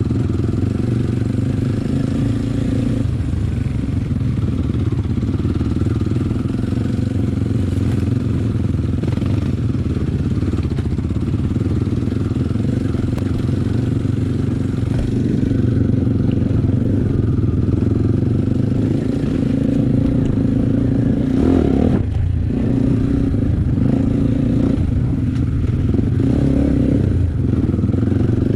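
Enduro motorcycle engine running steadily while riding, its pitch shifting a few times.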